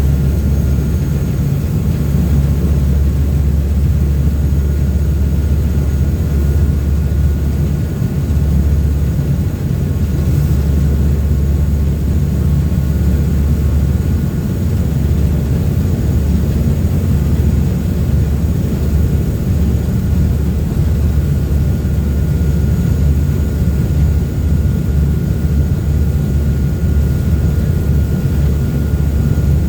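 Engines of a Thames Clipper Uber Boat passenger catamaran running steadily at speed: a loud, even low drone with faint steady whine tones above it.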